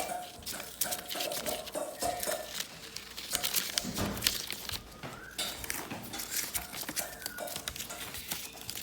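Three-week-old Quaker parrot (monk parakeet) chicks making rapid, scratchy chirping calls.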